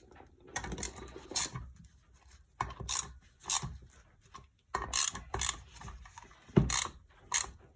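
Hand ratchet wrench clicking in several short runs with pauses between them, as bolts on the engine are turned down and tightened.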